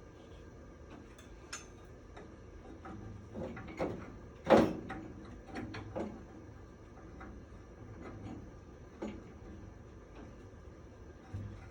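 Irregular knocks and clatter of parts and tools being handled during furnace installation work, with one louder knock about four and a half seconds in.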